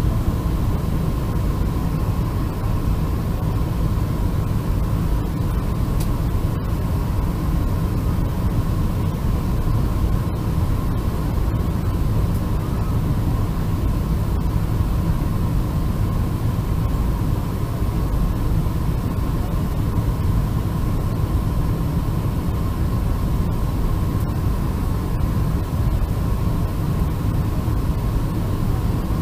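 Boeing 747-400 airliner noise: a steady low rumble with a hiss over it and a constant thin hum, unchanging throughout.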